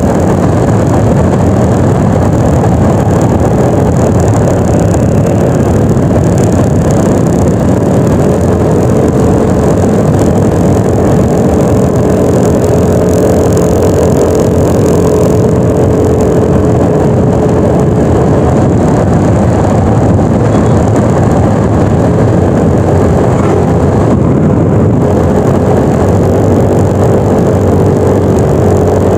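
Yamaha NMAX 155 scooter's single-cylinder engine running steadily while riding, under a loud, steady rush of wind and road noise.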